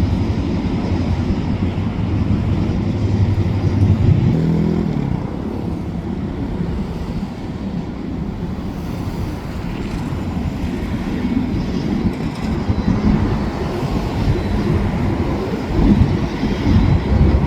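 Freight train rolling past: a steady low rumble with a diesel engine hum that rises in pitch briefly about four seconds in, then mostly wheel and car rumble.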